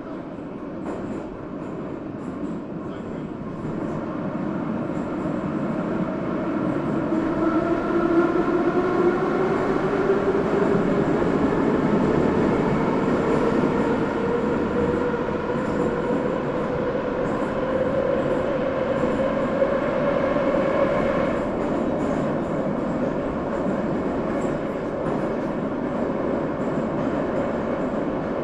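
Subway train running on the rails, with a rumble and a rising whine from the electric traction motors as it picks up speed; the whine climbs steadily for about fifteen seconds, then levels off as the train reaches cruising speed.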